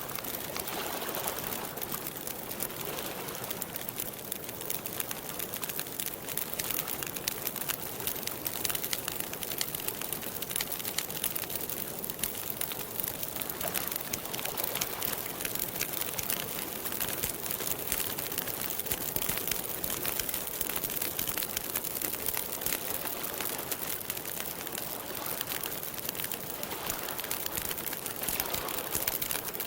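Campfire crackling steadily, a dense stream of small snaps and pops from the burning wood.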